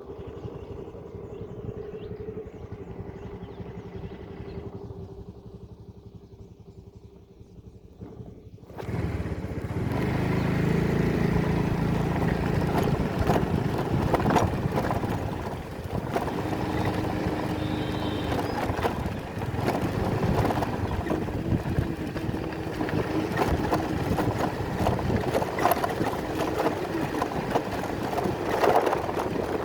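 A motor vehicle's engine running steadily. About nine seconds in it suddenly becomes much louder and stays that way.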